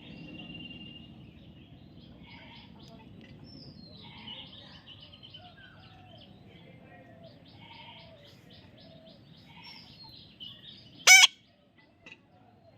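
Parrot chirping softly and repeatedly, with one loud, short squawk about eleven seconds in.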